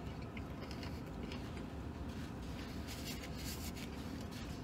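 A man chewing a mouthful of sandwich, with faint scratchy rustles of the paper wrapper, over a steady low background hum.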